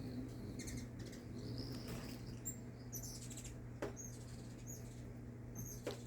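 Hummingbirds at a feeder giving short, very high chirps, scattered irregularly, with a steady low hum underneath.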